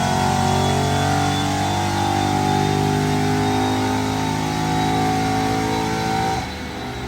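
Car engine held at high, steady revs under load on a chassis dyno, then dropping off sharply about six and a half seconds in.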